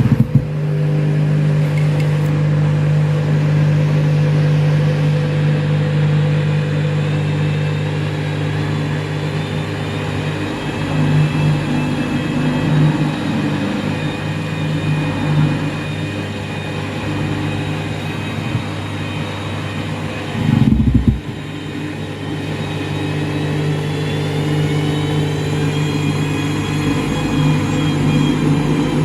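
Washing machine drum motor running at speed with a steady hum and whine, briefly lurching with a thump about two-thirds through, then the whine rising in pitch near the end as it speeds up again. The drum is full of suds from a double dose of powder, the condition that brings on a suds lock.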